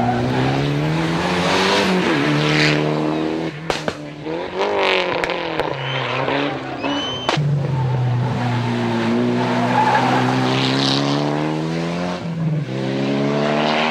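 Rally car engine under hard acceleration, its pitch climbing and dropping through three quick gear changes.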